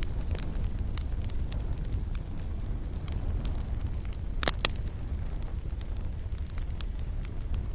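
Wood fire burning in a fireplace: a steady low rumble of the flames with scattered sharp crackles and pops, the loudest a double snap about halfway through.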